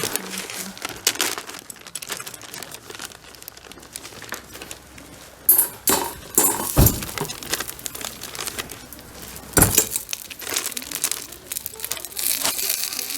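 Irregular crinkling and rustling handling noises, with a few sharp knocks about halfway through and again near the end.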